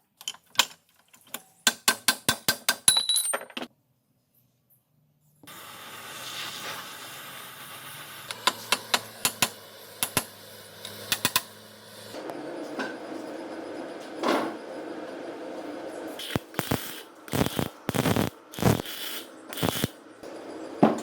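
Hand work on metal parts: a run of quick sharp clicks and clinks, a short gap, then scattered taps and clinks over a faint steady background, broken by abrupt cuts.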